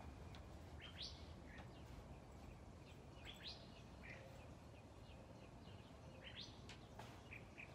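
Faint bird chirps: a few short rising calls a couple of seconds apart, over a low steady background rumble.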